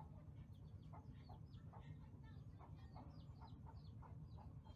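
Faint, rapid high-pitched peeping of birds, several short calls a second, over a low steady hum.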